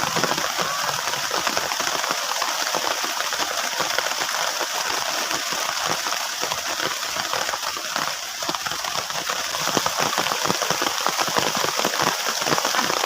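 Heavy rain drumming on a plastic tarp shelter: a dense, steady patter of countless drops.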